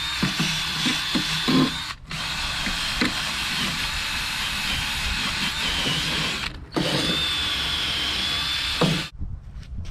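A handheld power tool running in spells, with a faint high whine and short knocks. It is broken by brief gaps at about two seconds and six and a half seconds, and drops away near the end.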